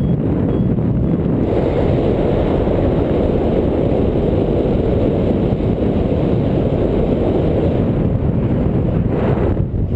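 Strong wind buffeting the microphone in flight: a loud, steady, low rumble of wind noise, with a brief harsher gust near the end.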